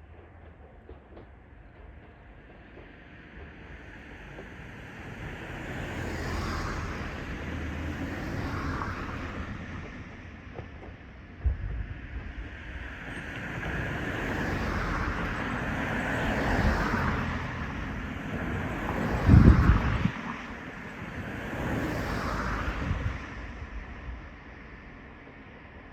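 Several road vehicles passing one after another close by, each a whoosh that swells and fades over a few seconds, with wind buffeting the microphone.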